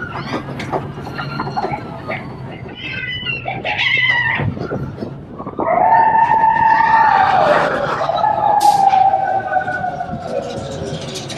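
Steam locomotive whistle on the Disneyland Railroad, one long blast of about five seconds that starts about halfway in, its pitch sagging as it dies away.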